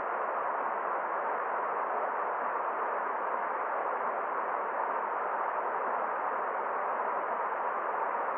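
Forest stream flowing: a steady, unchanging rush of water.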